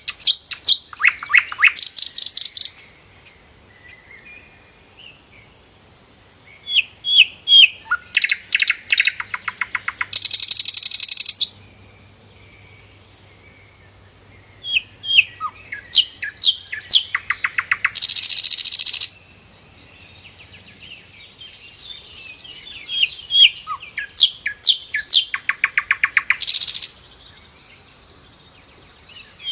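Sikatan londo singing: repeated song bouts about every eight seconds, each a short run of sharp chirps ending in a fast, buzzy rattle that lasts a second or two, with quiet pauses between.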